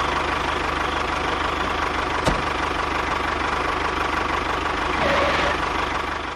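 A small motor running steadily with a fast low chatter and a steady whine, with one sharp click about two seconds in.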